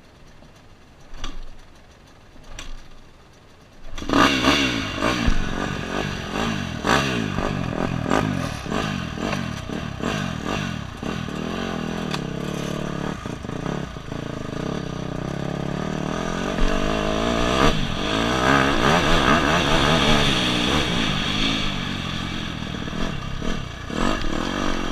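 Faint clicks, then a motocross bike's engine starts suddenly about four seconds in and keeps running, revving up and down.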